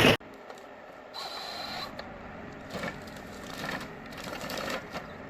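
Wood crushing and splintering in a chipper stops abruptly just after the start. It gives way to a quieter mechanical clatter from working forestry machinery, which swells about once a second.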